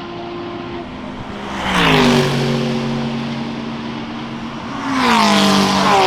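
GT3 race cars passing at speed, two in turn, the first about two seconds in and the second near the end, each engine's note dropping sharply in pitch as it goes by.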